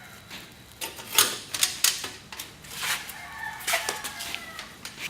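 Irregular sharp knocks and clanks, some with a brief ringing, from a rusty steel exhaust pipe being handled and test-fitted while it is shaped.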